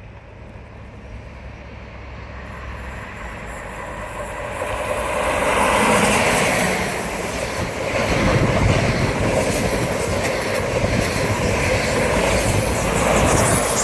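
Midland Pullman HST, a train with a Class 43 diesel power car at each end, passing at speed: the engine and wheel-on-rail noise builds over the first six seconds, stays loud, then falls away near the end.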